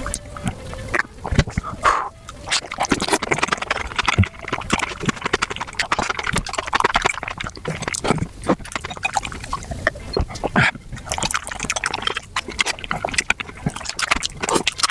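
Mukbang eating sounds played back at five times speed: a dense, rapid run of chewing, lip smacks and wet slurps from someone eating spicy beef feet.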